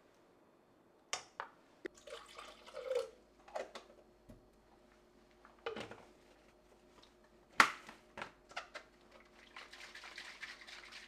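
Kitchen work with water: short spells of running and splashing water in a sink, among sharp knocks and clatter of dishes and utensils, the loudest knock about two-thirds of the way through.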